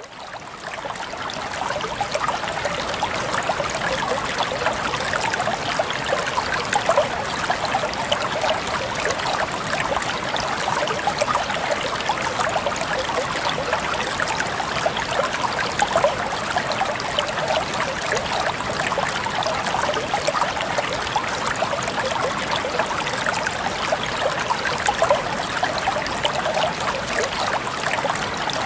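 Water flowing and splashing in a river or stream: a steady, babbling rush with fine sparkling splashes. It fades in over the first two seconds.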